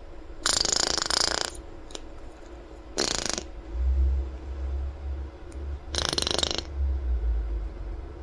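Quaker parrot blowing raspberries, three spluttering bursts a few seconds apart, the first the longest. A low rumble runs underneath in the second half.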